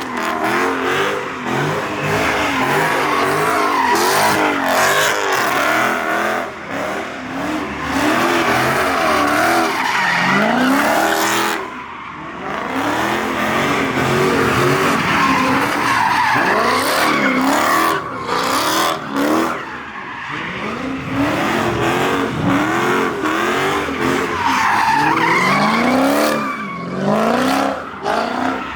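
Car doing donuts: its engine revving up and down over and over as the rear tyres screech against the pavement, with two brief lulls.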